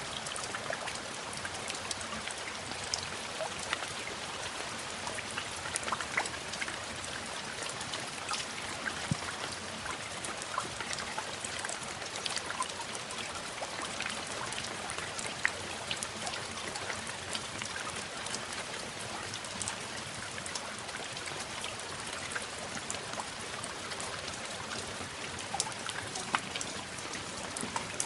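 Steady rain, with a constant hiss and many individual drops ticking irregularly throughout.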